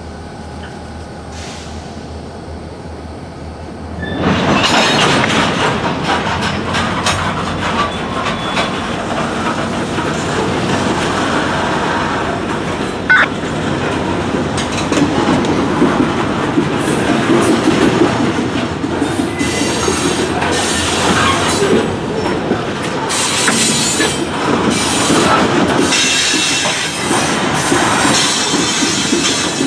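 Freight train of covered hopper cars rolling slowly past, steel wheels running on the rails. The noise jumps up sharply about four seconds in and stays loud, with scattered clanks.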